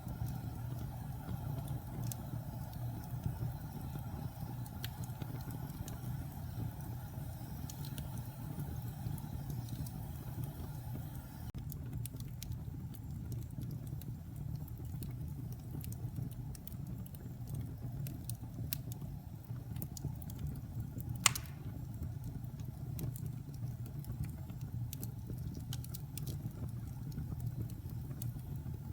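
Log fire burning in a fireplace: a steady low rumble of the flames with scattered small wood crackles, and one sharp, loud pop about two-thirds of the way through.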